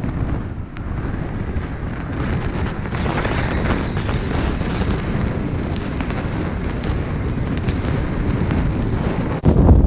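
Wind buffeting the microphone, a steady rushing noise. Just before the end it drops out for an instant and comes back louder and deeper.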